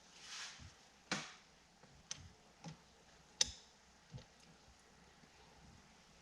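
Hand riveter being worked to set a rivet in a vent window frame: a short hiss, then several sharp clicks and ticks about a second apart, the loudest about three and a half seconds in.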